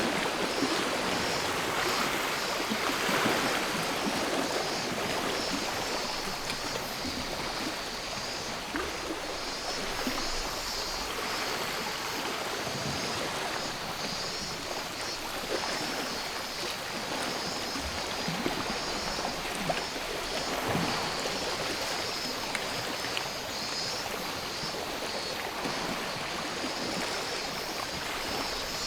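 Sea water washing and lapping on the shore in gentle swells, under a steady high buzz of cicadas.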